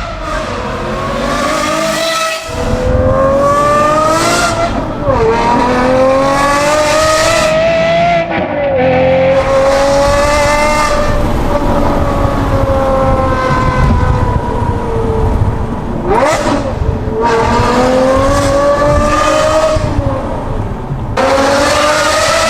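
Aston Martin Vantage V12's naturally aspirated V12 through a Secret Weapon exhaust, accelerating hard: the engine note climbs, then drops sharply at each gear change, several times over. In the middle it holds a long, slightly falling note, with one quick dip and rise about two-thirds of the way through.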